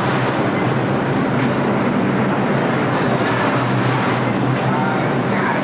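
Bombardier R142 subway train moving through the station: a steady loud rumble with a low hum, and a thin high wheel squeal through the middle.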